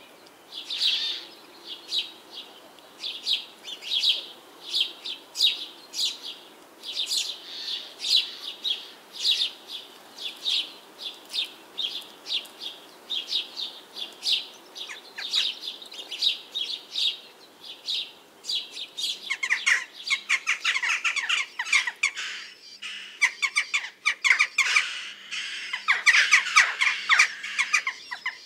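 Birds chirping: short high chirps repeat about twice a second, then about two-thirds of the way in a denser, busier chatter of calls joins in.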